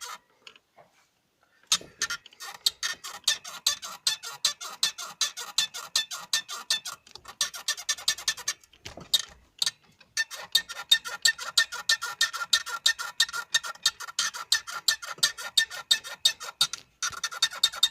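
Lada Oka steering column squeaking rapidly and evenly, about six high chirps a second, with the engine idling. It breaks off briefly a few times. The squeak comes when the steering wheel is left free and stops when it is held.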